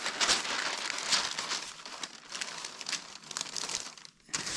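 Irregular crinkling and rustling of material being handled, with a short break about four seconds in.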